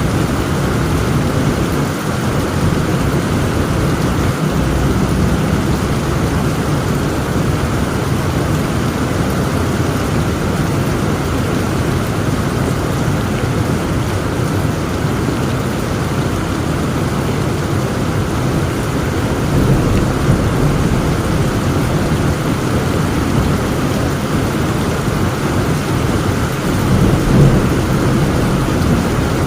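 Heavy rain falling steadily, with low thunder rumbling underneath that swells about twenty seconds in and again near the end.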